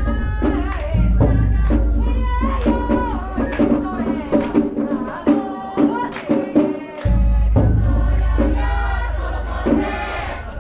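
Japanese festival float music: many voices chanting together over held pitched notes, with deep booms coming in suddenly about a second in and again about seven seconds in.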